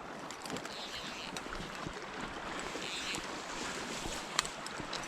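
Mountain stream water running steadily, with a few faint ticks and one sharp click about four seconds in.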